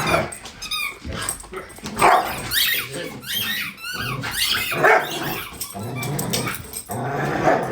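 Dog growling and barking in rough play: a low continuous growl with repeated short, sharp barks and yips over it.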